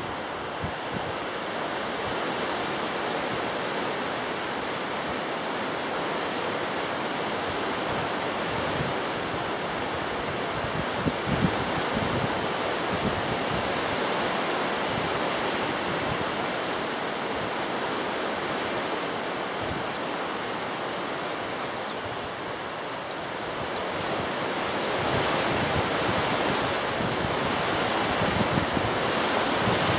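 Strong gusty wind buffeting the microphone: a steady rushing with low buffets from the gusts, growing a little louder near the end.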